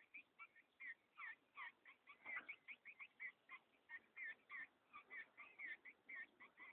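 Green-winged saltators giving a fast, steady series of short, high chirping calls, about four or five a second.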